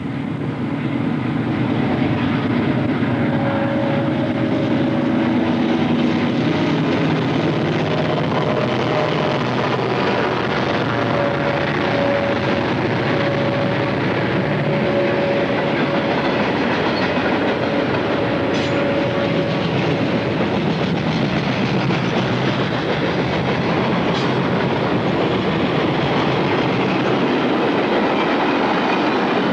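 A train rolling past at close range: a loud, steady rumble of wheels on rails that does not let up.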